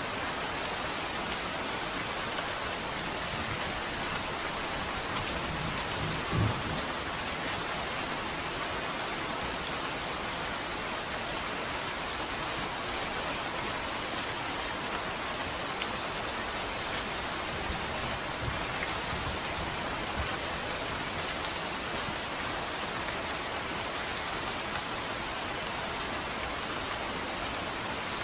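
Steady heavy rain hissing, with a short low rumble of thunder about six seconds in and fainter low rumbles later.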